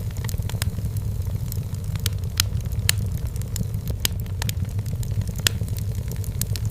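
Wood fire burning in a fireplace: a steady low rumble of the flames with frequent irregular crackles and pops of the burning firewood, a few sharper ones standing out.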